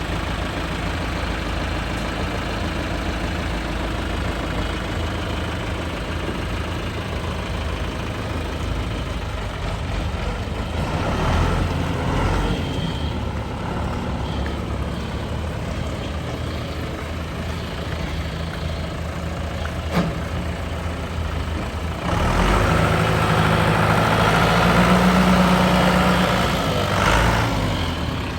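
John Deere 2650 tractor's diesel engine idling steadily. It is revved briefly about eleven seconds in, and again held at higher speed for about five seconds near the end before dropping back to idle. There is a single sharp click in between.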